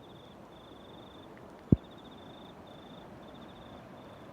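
An insect trilling in short repeated bursts, high-pitched, over a steady hiss of rain and running water, with one sharp thump nearly two seconds in.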